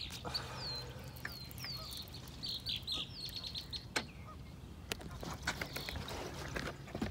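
Birds chirping, a run of short high calls that sweep downward, repeated over and over. A few sharp clicks come about four and five seconds in.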